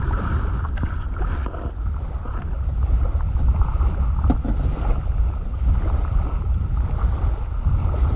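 Wind buffeting the microphone with a steady low rumble, over water lapping and splashing.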